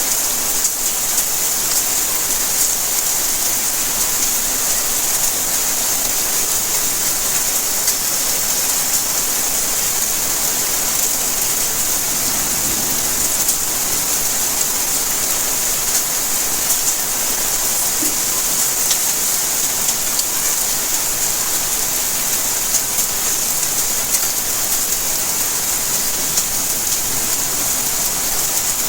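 Steady rainfall, a dense even hiss with many fine drop ticks on surfaces.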